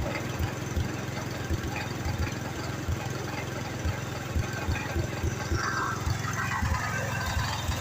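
An old tractor's engine running at a low, steady speed, with an even low thumping, about three beats a second.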